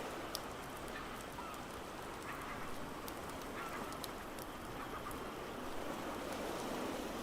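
Steady rushing of ocean waves and rain with the sharp, irregular crackle of a wood fire over it. A few faint short bird calls sound now and then in the background.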